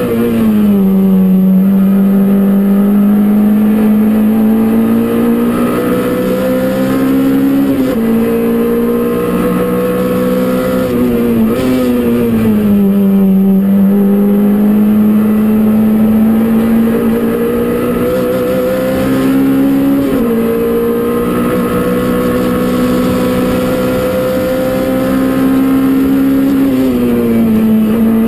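Peugeot 205 Rallye Group A race car's four-cylinder engine running hard, heard from inside the cabin. The revs climb slowly in each gear and drop sharply at each gear change or lift, several times over.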